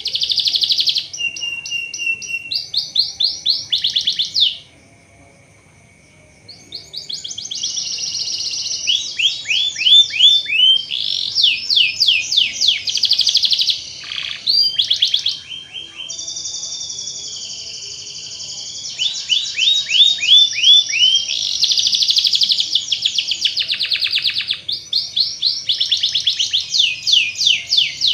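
Domestic canary singing long rolling trills of rapidly repeated, down-sweeping chirps, with a break of about two seconds near the start.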